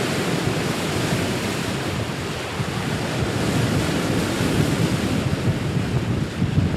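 Steady rush of wind buffeting the microphone over open-ocean water and waves.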